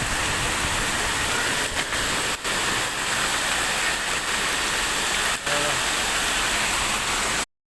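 Heavy rain pouring down, a steady loud hiss, cutting off abruptly near the end.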